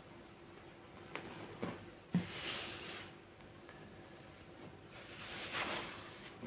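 Crunchy baking soda being crushed and crumbled. A few sharp cracks come between one and two seconds in, followed by a stretch of powdery crumbling, and another crumbling swell comes a little after five seconds.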